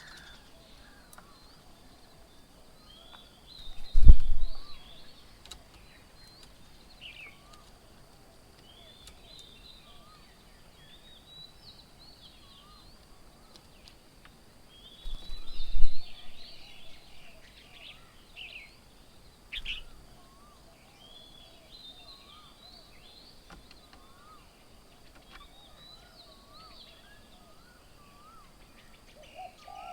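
Several birds chirping and calling, many short high notes overlapping, with a repeated lower upturned call in between. Twice, about four seconds in and again midway, a loud low rumble like wind buffeting the microphone.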